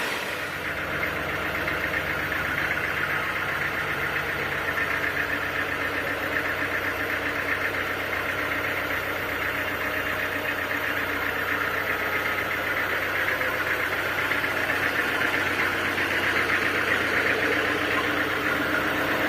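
Sawmill machinery running steadily: an engine drone with a constant higher hiss over it.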